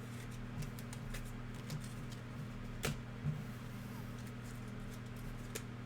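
Steady low electrical hum with a few light clicks and soft taps scattered through it; the sharpest click comes about three seconds in and another near the end.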